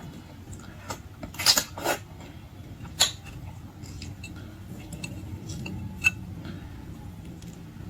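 Tableware clicking and clattering during a meal of shellfish, a few sharp knocks standing out about a second and a half, three and six seconds in, over a low steady background.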